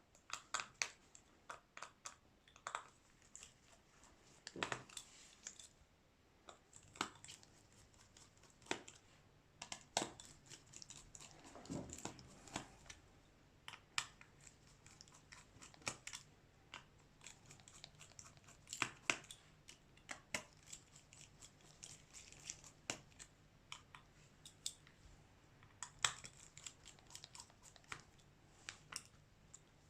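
Irregular small clicks, taps and scrapes of hand tools working on a Xiaomi Redmi 9A smartphone's plastic casing and parts during screen replacement, at times several a second. A faint low hum joins about seven seconds in.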